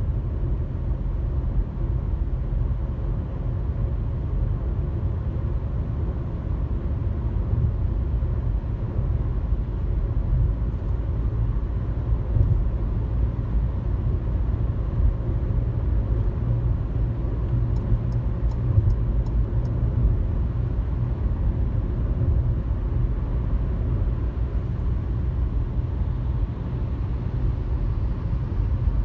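Steady low rumble of road and engine noise inside a car's cabin at highway speed, with a short run of faint ticks about two-thirds of the way through.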